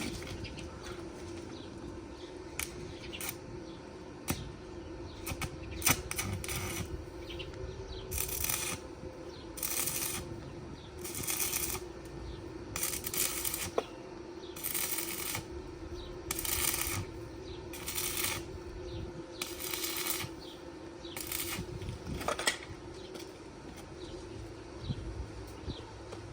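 Rhythmic scraping or rasping strokes, about one a second for over ten seconds in the middle, over a steady low hum, with a few sharp clicks.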